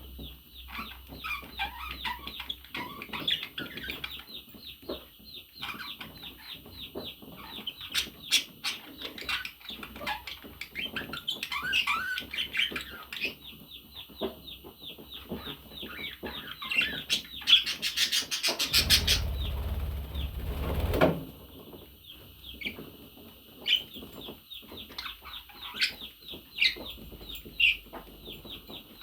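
Budgerigars chirping and chattering in rapid runs of short high chirps mixed with warbling notes. About two-thirds of the way through there is a louder noisy burst of a couple of seconds with a low rumble.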